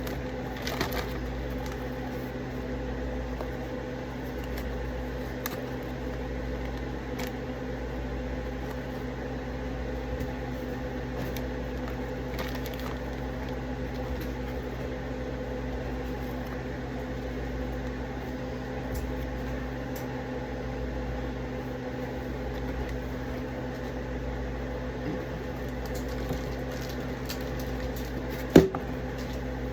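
Steady electric hum of a running kitchen appliance, with faint scattered clicks of handling and one sharp click near the end.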